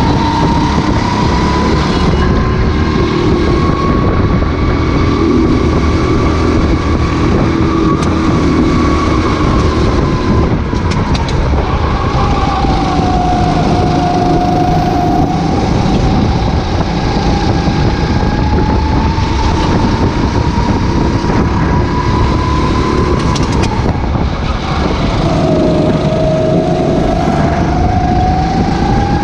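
Racing kart engine heard onboard, its pitch climbing steadily through the revs, dropping sharply twice as the driver lifts for corners, then climbing again out of each one.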